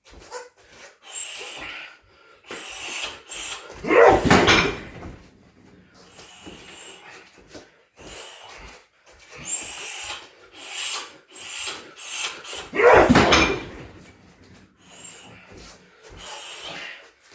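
Two heavy shin kicks landing on a hard rubber car tyre on a water-base boxing stand, about nine seconds apart: each a loud thump that rings on for about a second. Shorter, quieter scuffs and bumps fall between them.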